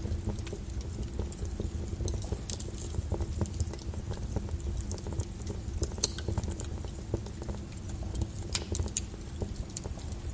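Wood fire burning in a fireplace: a low steady rumble of flames with irregular crackles and pops, a sharper pop about six seconds in and a couple more near the end.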